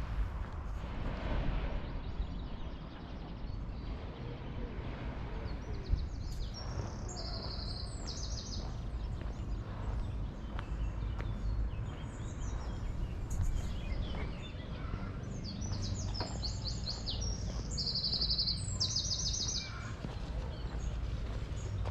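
A small songbird singing in short phrases of fast repeated high notes, several times over, above a steady low outdoor rumble.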